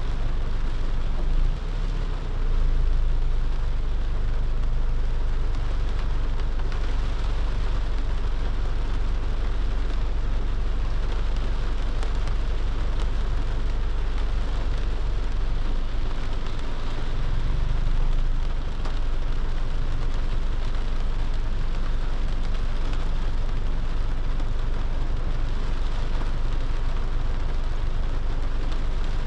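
Steady heavy rain falling, over a constant low rumble that swells briefly twice.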